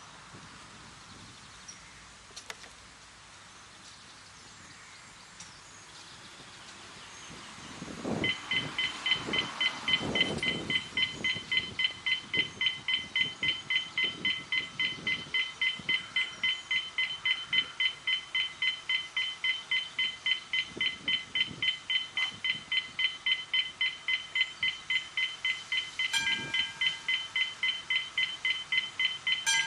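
Electronic beeper sounding a rapid, even beep of two pitches at once, about three beeps a second, starting about eight seconds in after quiet outdoor background.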